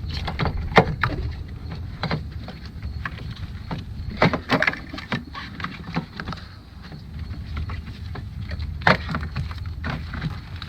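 Irregular plastic clicks and knocks as a fuse box's plastic bottom tray is pushed and fitted in under wiring harness connectors, with the sharpest knocks about a second in, around four and a half seconds and near nine seconds. A steady low hum runs underneath.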